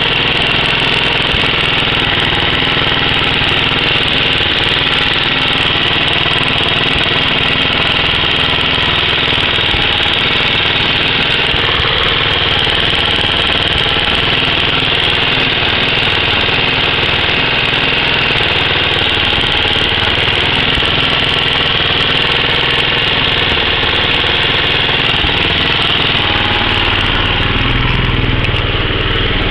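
Hot engine idling steadily after several minutes at idle, with a noise that the owner places toward the top of the engine.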